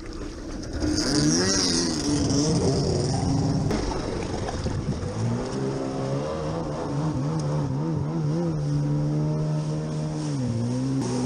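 Stand-up jet ski's two-stroke engine throttling up about a second in, with a rush of water spray. Its pitch rises and falls repeatedly with the throttle, then holds steady and drops briefly near the end.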